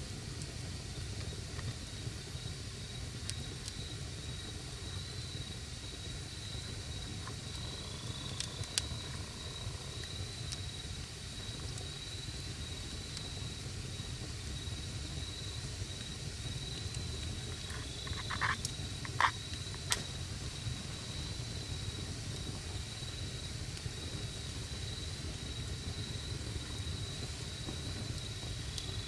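Wood campfire burning with a steady low rumble, broken by a few sharp pops about nine seconds in and a cluster of louder cracks a little past halfway. A thin, steady high-pitched tone runs underneath.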